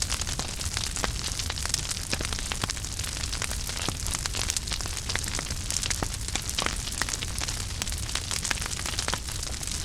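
Wood fire in a fireplace burning, with a steady low rumble and frequent small crackles and pops throughout.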